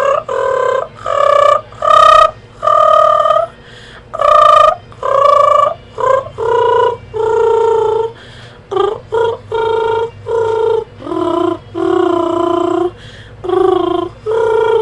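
A girl's voice making a silly wordless noise in place of lyrics, carrying a song's melody as a string of held notes, each about half a second to a second long, stepping up and down in pitch.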